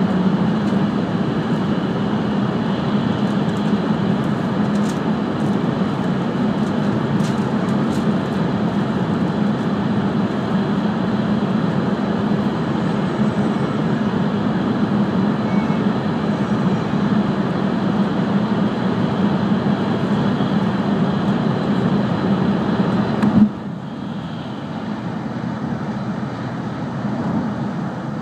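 Cabin noise of an E5 series Shinkansen at speed: a steady, loud rumble with a low hum. About 23 seconds in it drops suddenly to a quieter, lighter running noise.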